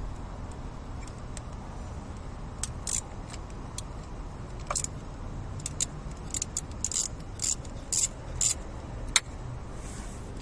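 Metal hand tools clinking and rattling in short, irregular bursts while working on a car engine, with one sharp click near the end, over a steady low rumble.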